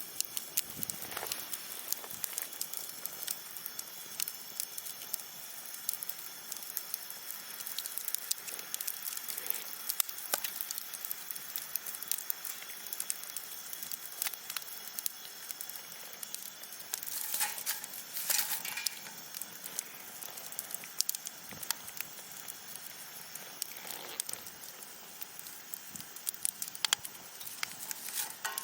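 Wood campfire burning: a steady hiss with irregular sharp crackles and pops, a few louder pops about 17 to 19 seconds in.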